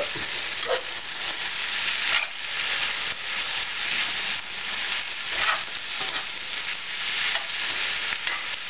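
Cabbage and Spam frying in bacon grease in a cast-iron skillet, a steady sizzle, while a spoon is stirred through it, with a few scrapes against the pan.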